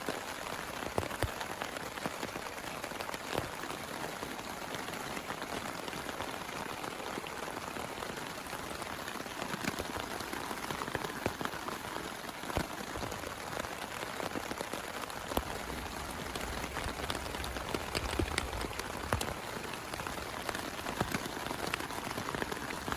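Heavy rain falling steadily, with many sharp individual drop hits close by. A low rumble joins in about two-thirds of the way through.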